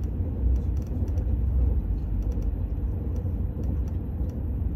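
Steady low rumble inside the passenger cabin of an Al Boraq high-speed train, with a few faint light clicks.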